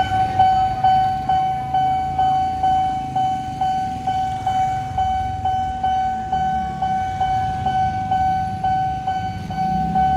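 Electronic level-crossing warning bell of a Nippon Signal crossing ringing in a fast, even ding-ding, about two and a half strikes a second on one bright pitch, signalling that a train is coming and the barriers are down.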